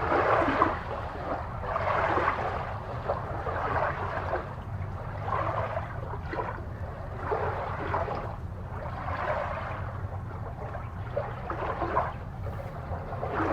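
Ocean water ambience: water swishing and gurgling in swells that come and go every one to two seconds, over a steady low rumble.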